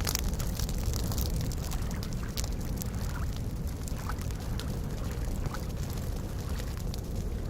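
Campfire crackling with scattered sharp pops over a steady low wash of small waves lapping at a lakeshore.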